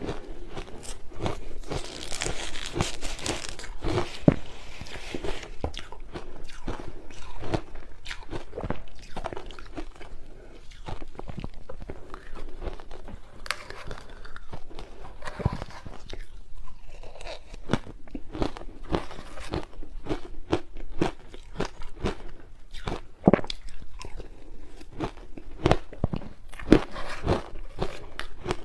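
Large chunks of ice coated in matcha powder being bitten and chewed, in an irregular run of sharp crunching cracks.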